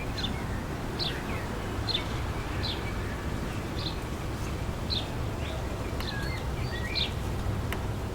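Wind gusting and rumbling through trees, with a bird repeating a short, high, falling chirp about once a second and a few lower whistled bird notes about six to seven seconds in.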